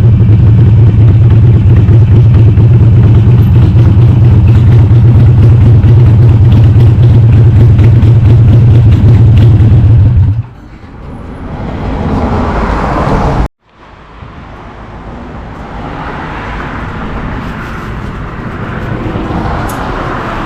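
Harley-Davidson Sportster 883R's air-cooled V-twin, upgraded to 1200 cc, running loud and steady through a Cobra Speedster 909 exhaust with the dB killers removed. It stops abruptly about halfway through, leaving quieter road and traffic noise.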